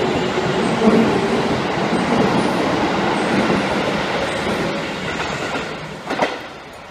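Electric commuter train running past close by, steady wheel-on-rail noise that fades as the last cars go by, with a brief sharp sound just before the end.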